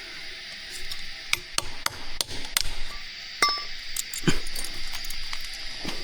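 A series of sharp, irregular knocks and clicks, about a dozen in a few seconds, over a steady high hiss.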